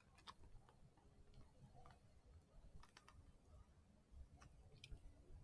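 Near silence with a few faint, scattered clicks as a small handheld heat sealer is pressed and run along a plastic bag to reseal it.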